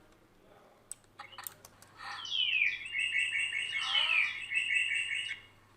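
A bird-song sound effect played back from an audio editor: a run of quick down-sweeping whistles and rapid repeated chirps, starting about two seconds in and stopping shortly before the end. A few mouse clicks come just before it.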